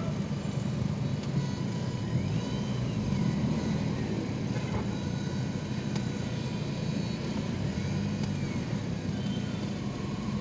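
Steady low rumble of a vehicle being driven, engine and road noise. A faint high tone rises and falls twice over it.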